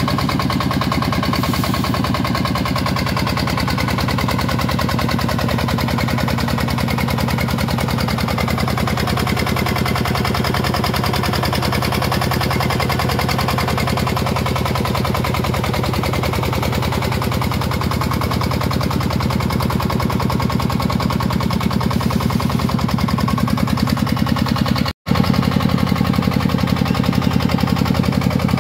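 Shifeng 40 diesel engine running steadily with a fast, even train of thumps. It breaks off abruptly about 25 seconds in, then resumes a little louder.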